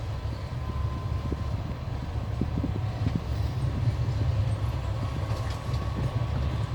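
Passenger train running on the rails, heard from inside the carriage by the window: a steady low rumble of wheels and running gear with scattered light knocks, and a faint thin whine above it.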